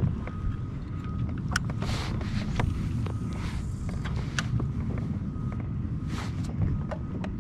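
Wind buffeting the microphone as a steady low rumble, with a few light knocks and brief splashy hisses of water around a kayak.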